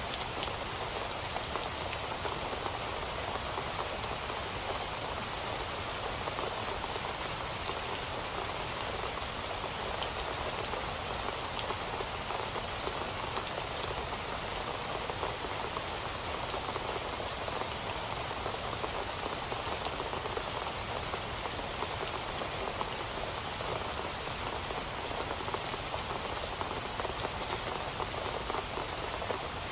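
Steady rain falling and pattering on a surface, with scattered individual drops ticking through the even rush.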